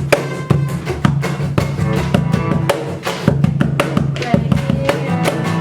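Live band playing the final bars of a song on guitar and drum kit, with steady drum hits; the music stops at the very end.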